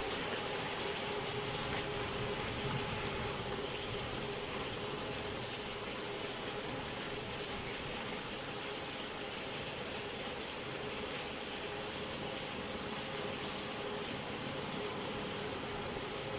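Steady rainfall, an even hiss without breaks, with a faint steady hum underneath.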